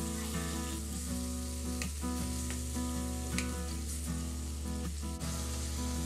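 Chicken breast strips and bell pepper strips sizzling as they fry in oil and butter, with a wooden spatula stirring them and clicking now and then against the pan. Quiet background music plays underneath.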